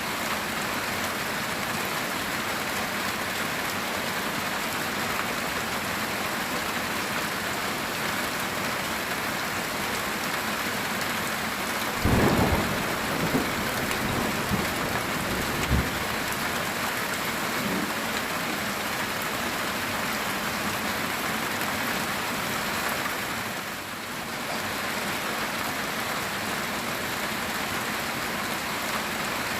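Heavy rain falling steadily on a metal tin roof, with a thunderclap about twelve seconds in that rumbles on with a few more cracks for several seconds.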